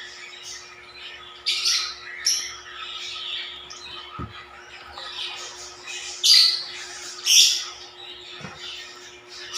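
African lovebirds calling: a run of high-pitched chatter broken by four loud, shrill calls, two about two seconds in and two more about six to seven and a half seconds in.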